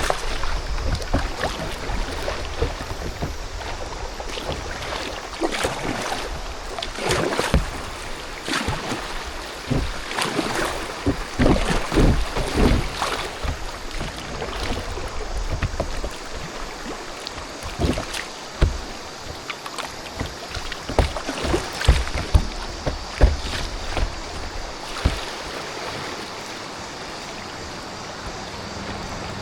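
Kayak paddling through river chutes: water rushing and splashing against the hull, with irregular paddle strokes and splashes coming in clusters, busiest in the middle and again past the halfway mark.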